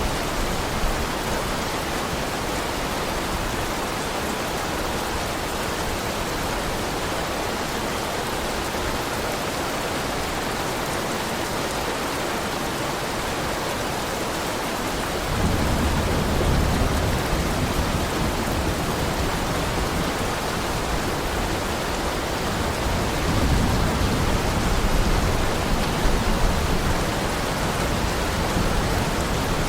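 Steady heavy rain. About halfway through, a low rumble of thunder sets in suddenly and keeps rolling, swelling again near the end.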